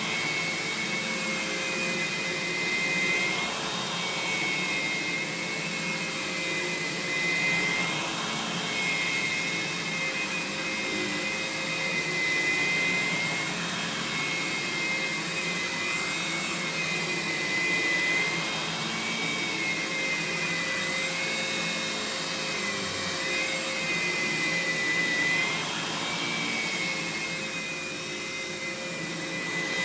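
Aerus Lux Guardian dual-motor upright vacuum running: a steady motor hum with a high whine that wavers slightly up and down in pitch.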